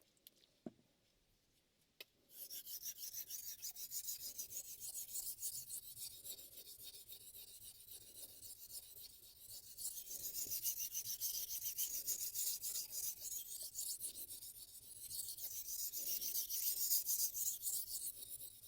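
Steel chef knife blade being stroked rapidly back and forth on a Shapton M15 ceramic whetstone, a steady rasping grind that starts about two seconds in.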